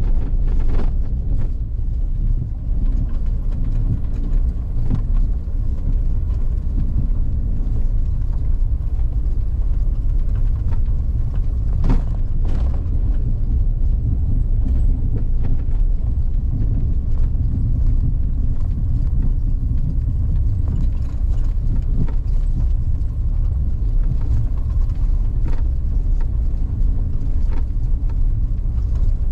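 A vehicle driving along a forest road: a steady low rumble of engine and tyres, with a few short knocks, the sharpest about twelve seconds in.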